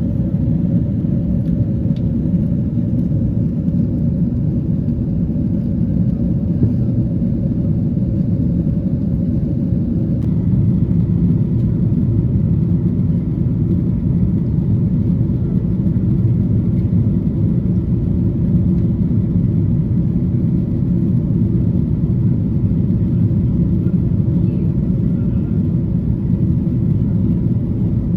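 Steady low rumble inside the cabin of a Boeing 777-300 in cruise flight: engine and airflow noise. A faint steady hum within it stops about a third of the way through.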